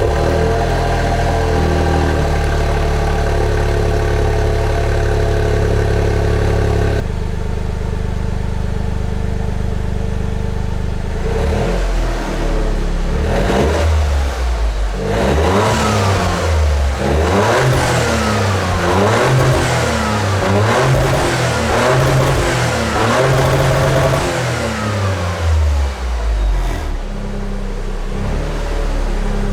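Toyota GR Yaris three-cylinder engine heard through its GR Sport aftermarket exhaust. It runs at a raised idle just after starting, drops to a lower idle about seven seconds in, then from about twelve seconds in is revved again and again in quick blips that rise and fall, and settles back to idle near the end.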